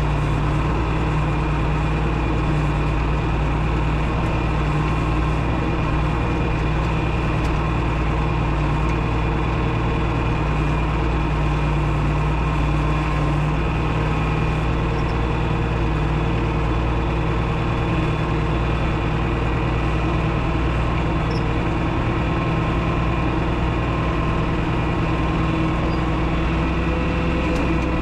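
1972 John Deere 6030 tractor's six-cylinder diesel engine running steadily at a constant speed.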